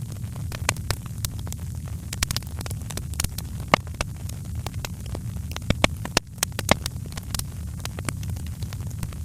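Wood fire crackling in a fireplace: irregular sharp pops and snaps, several of them close together around the middle, over a steady low rumble.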